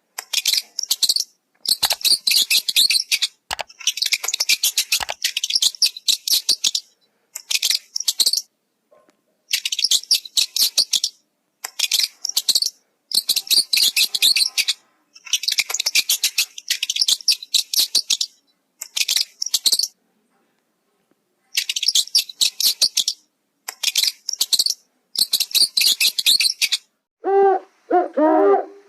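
Birds chirping in rapid, high-pitched bursts of a second or two, separated by short pauses. Near the end a lower hooting call starts.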